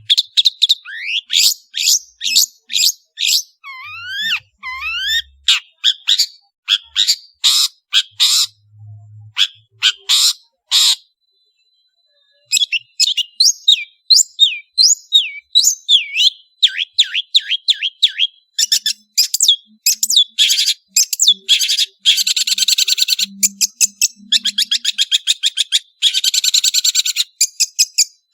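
Long-tailed shrike (cendet) singing a fast, varied song of sharp whistled notes and rising and falling slurs, breaking off for about a second and a half partway through, then going into quick rattling trills.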